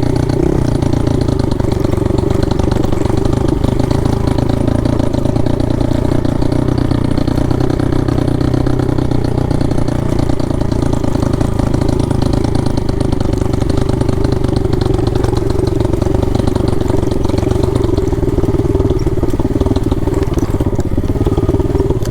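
Pit bike engine running steadily as the bike is ridden along.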